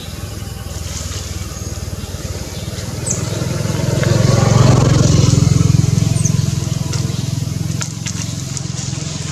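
An engine running close by, growing louder to a peak about halfway through and then fading, as a vehicle passing.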